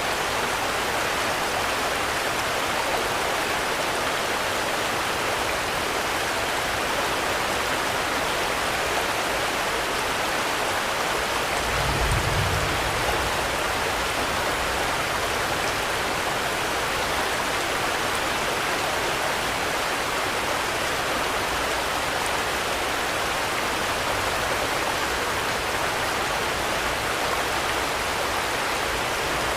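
Steady, even rain with no break, and a short deep rumble about twelve seconds in.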